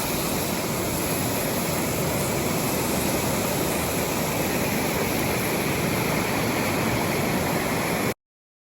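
Waterfall rushing in a steady, even roar of falling water, cutting off abruptly about eight seconds in.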